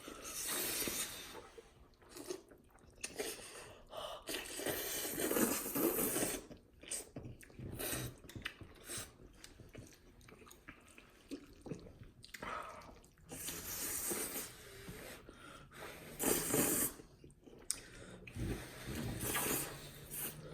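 Greedy, noisy eating of cheesy ramen noodles: slurping and open-mouthed chewing in irregular bursts, loudest about five to six seconds in and again near the end.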